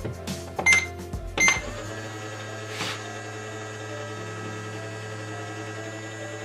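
Just Like Home toy microwave being started: two short beeps of its buttons, then its running hum, steady with a few faint tones.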